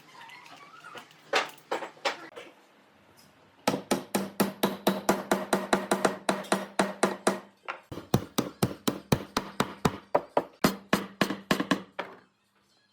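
Hammer striking wood: a few single blows, then two long runs of rapid blows at about five a second, with a steady low hum under them.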